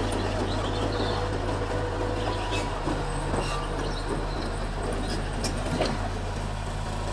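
Mitsubishi bulldozer's diesel engine running steadily, with scattered clicks and knocks.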